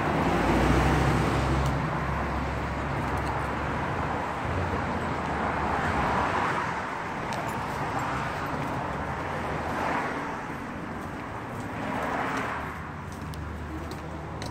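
Road traffic: a steady wash of vehicle noise with several cars passing one after another.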